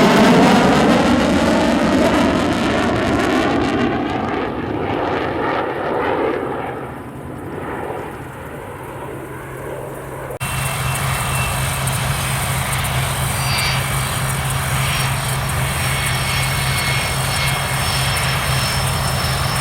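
An aircraft engine drones past and fades, its sound sweeping down in pitch over the first several seconds. After a sudden cut about ten seconds in, a steady engine drone with a low hum runs on.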